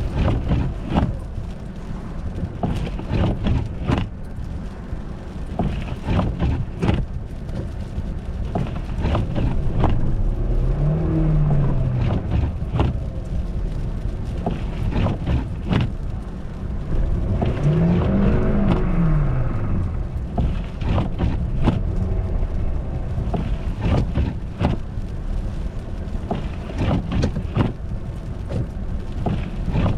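Car running on an icy road, with a steady low rumble and many short knocks and crackles. Twice, about ten seconds in and again about eighteen seconds in, the engine revs up and falls back.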